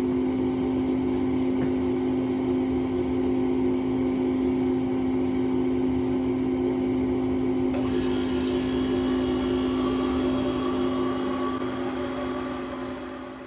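Small refrigerator compressor running with a steady hum after starting, now that a 3-in-1 hard-start capacitor is fitted. More hiss joins about eight seconds in, and the sound fades out at the end.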